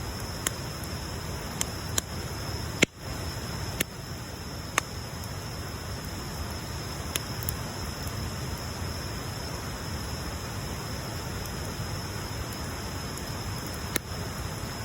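Bonfire burning: a steady hiss and low rumble with scattered sharp crackles and pops, the loudest about three seconds in and another near the end.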